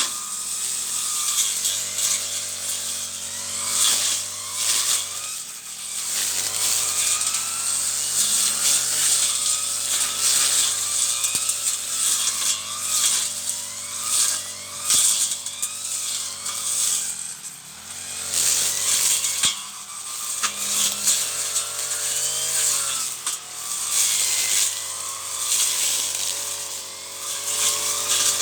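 Petrol brush cutter running and cutting weeds, its engine note wavering up and down as the load changes.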